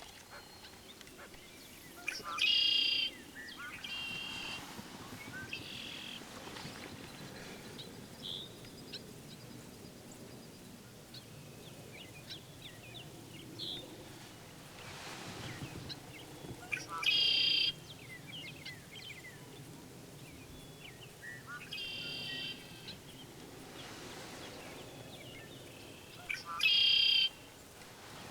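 Birds calling outdoors: a loud, harsh call of about half a second comes three times, roughly ten seconds apart, with softer chirps and shorter calls in between.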